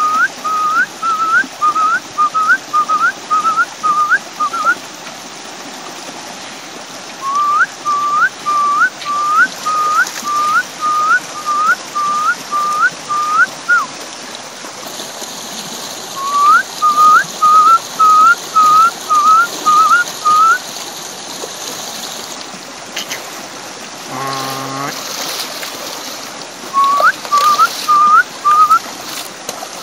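A bird's loud, clear whistled call, a single upslurred note repeated about two to three times a second in four runs of eight to ten notes, over a shallow stream running steadily over rocks. A short low call sounds about three-quarters of the way through.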